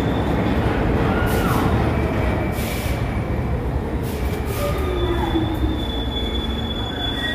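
New York City subway train running through the station with a loud, steady rumble and wheel squeal: squeals that slide down in pitch, then a steady high-pitched squeal from about four seconds in.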